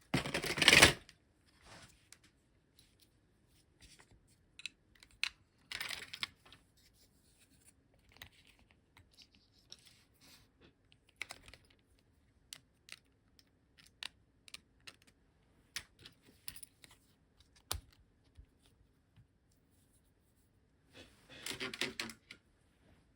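Scattered light clicks and taps of small parts being handled at a workbench, with louder scraping or rustling bursts at the start, about six seconds in, and again near the end.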